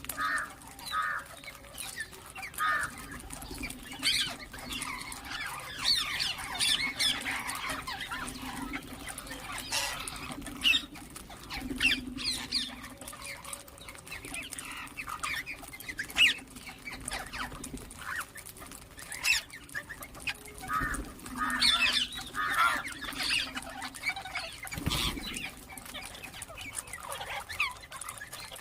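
Ringneck parakeets chirping and squawking in many short, repeated calls, over a steady low hum.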